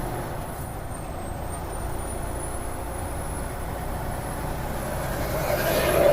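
Semi-truck running on the road, heard inside the cab: a steady low engine drone with road noise, swelling into a louder rush near the end.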